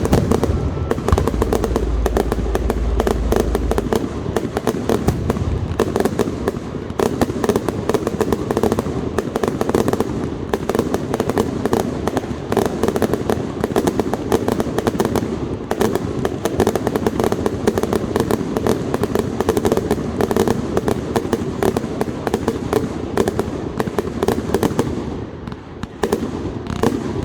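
Fireworks display going off: a dense, continuous barrage of bangs and crackling, with a deep boom in the first few seconds, easing off near the end.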